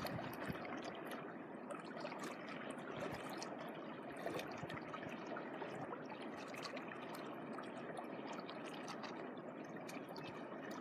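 Sea water washing and trickling at the shore: a steady, quiet wash with small scattered crackles.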